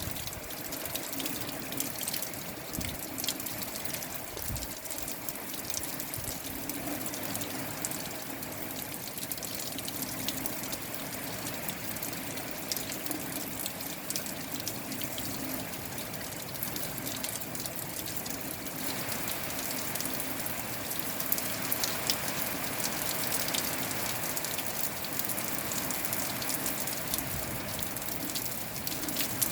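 Steady rain falling, many small drops ticking close by over a continuous hiss; it grows a little heavier about two-thirds of the way through.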